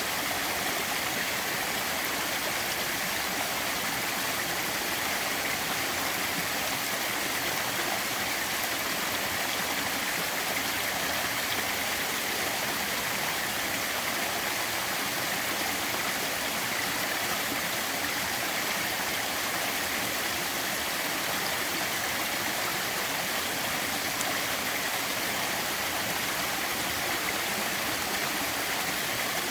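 Small waterfall with a modest flow, water falling and splashing into a pool in a steady, even rush.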